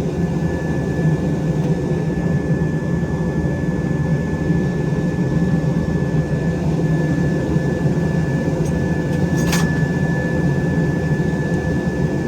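Forge running while a san mai billet heats back up to welding temperature: a steady low rushing noise with a thin, steady high whine over it. There is one brief sharp click about nine and a half seconds in.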